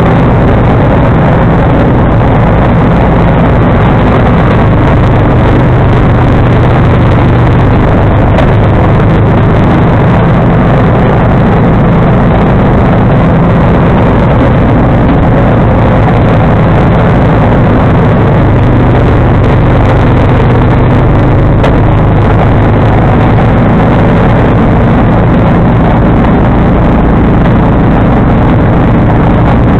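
John Deere 445 garden tractor's liquid-cooled V-twin engine running steadily at working speed, driving the front-mounted snowblower, loud and unbroken throughout.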